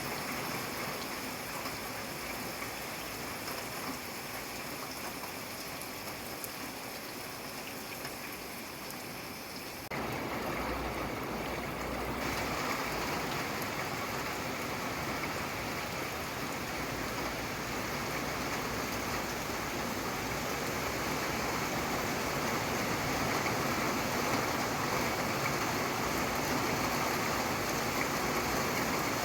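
Steady rain falling, an even hiss of water. About ten seconds in it abruptly gets louder and fuller, with a low rumble underneath for a few seconds.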